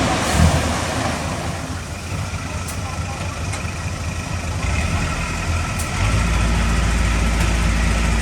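Diesel engine of heavy earthmoving equipment running at a steady idle. About six seconds in, a louder, deeper engine note comes in.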